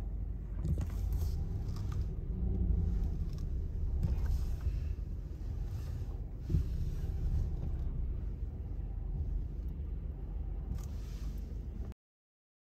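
Car engine idling, a steady low rumble heard from inside the cabin, cutting off suddenly near the end.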